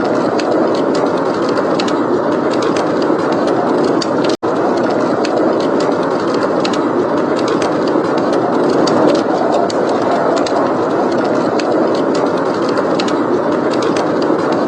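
Steady heavy blizzard wind, with the small sharp crackles and pops of a wood fire scattered through it. The sound drops out for an instant about four seconds in.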